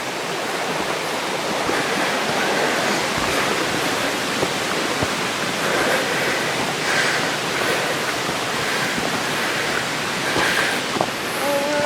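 Mountain stream rushing over rocks: a steady wash of running water.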